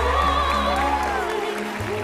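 A ten-year-old girl singing in a classical operatic style, with wide vibrato on held notes, over orchestral accompaniment.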